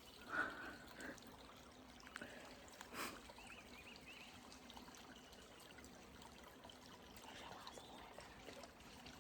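Faint trickle of shallow stream water, with a couple of soft knocks, about half a second in and again about three seconds in.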